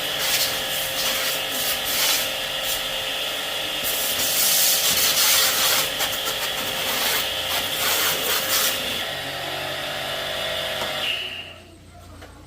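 A power tool running steadily while sanding or grinding, with a constant whine through the rasping noise. It stops about eleven seconds in.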